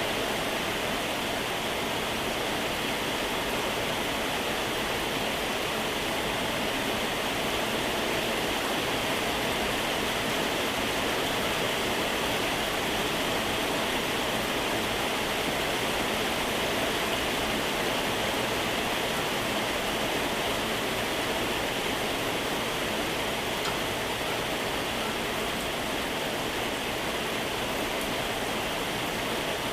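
Moderate to heavy rain falling steadily, a dense, even hiss that does not let up.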